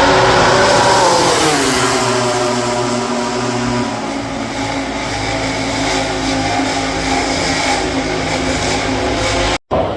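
MotoGP racing motorcycle engine at high revs, its pitch dropping over the first couple of seconds and then holding fairly steady. The sound cuts out briefly near the end.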